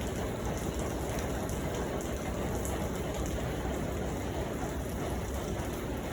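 Steady rain falling, an even wash of patter with faint scattered drop ticks.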